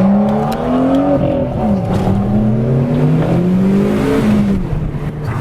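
BMW M2 F87's twin-turbo inline-six, fitted with the M Performance exhaust, accelerating: the engine note climbs, drops at an upshift about a second and a half in, climbs again in the next gear, then falls as the throttle lifts near the end.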